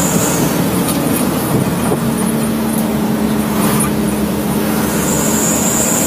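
Truck engine and road noise while driving, with a steady drone coming in about two seconds in and a high-pitched squeal near the end.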